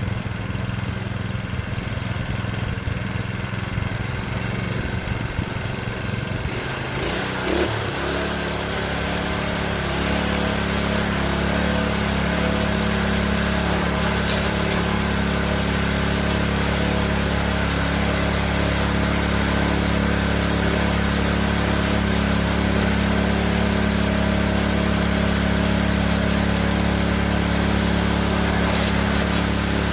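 Small engine of a Classen TRC-20 power rake (dethatcher) running after a cold start. About seven seconds in its note shifts up and it settles into a steady, slightly louder run with added rattle; it runs really smooth.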